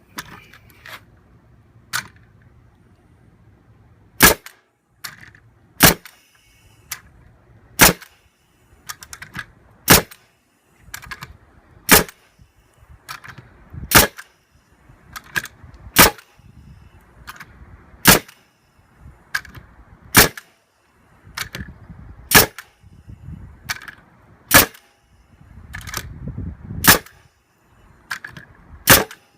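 A series of sharp snapping cracks, about one every two seconds, with softer clicks and knocks between them.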